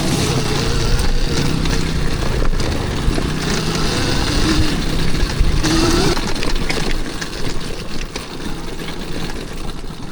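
Gasoline dirt bike engine running with the throttle rising and falling, giving short rising revs about four and six seconds in, and dropping lower near the end.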